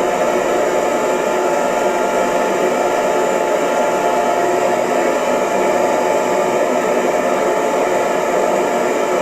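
Electric hair dryer running steadily: an even rush of blown air over a motor whir, with a few faint steady tones.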